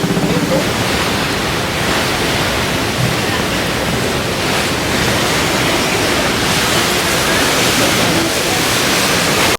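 Steady loud rushing of wind and water on the moving Staten Island Ferry, an even roar with no distinct tones.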